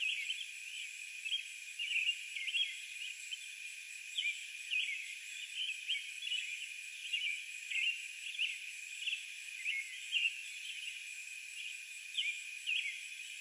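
Outdoor animal chorus: many short, high chirps repeating irregularly over a steady high-pitched drone.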